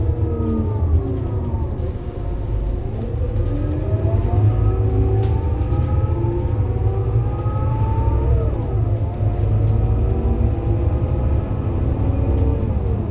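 Scania K230UB city bus with a ZF Ecomat six-speed automatic gearbox: a steady diesel rumble under a whine that sinks as the bus slows, then climbs as it accelerates. The whine drops sharply about two thirds of the way in and again near the end, as the automatic gearbox shifts up.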